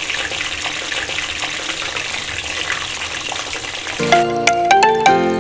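Food sizzling and crackling in a hot pan. About four seconds in, a bright marimba-like background tune comes in loudly over it.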